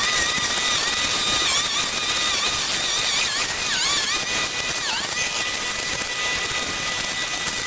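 Handheld two-stroke brush cutter running at high speed, its whine dipping briefly several times as it bogs under load while cutting.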